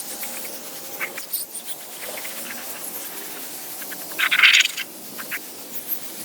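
Electric steam cleaner's spray gun letting out a short burst of steam hiss about four seconds in, over a steady background hiss, with a few small clicks and scrapes.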